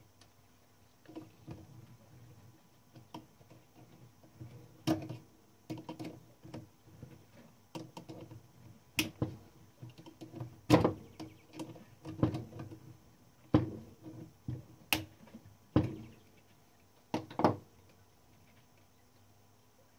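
Irregular clicks and knocks of small metal typewriter parts and tools being handled and fitted, with a few sharper knocks in the second half.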